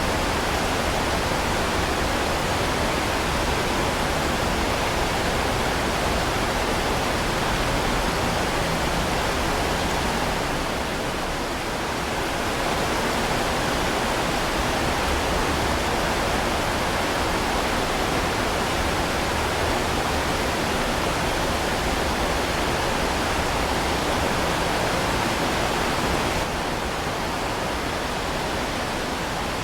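Heavy rain falling steadily, a dense even hiss with no separate drops standing out. It dips briefly in level about ten seconds in and drops a little again near the end.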